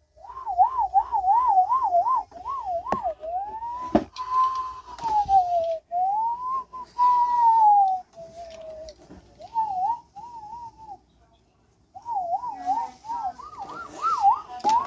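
A person whistling an imitation of a police siren: a clear tone wavering up and down quickly, then sliding in slow rises and falls, stopping and starting several times. A couple of sharp knocks come a few seconds in.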